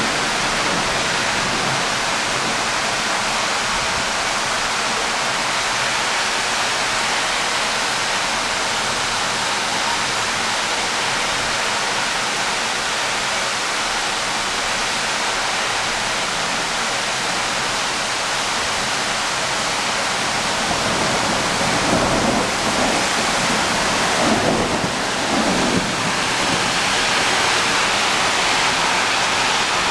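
Heavy rain pouring down in a thunderstorm as a steady hiss, with low rumbles of thunder swelling about two-thirds of the way through.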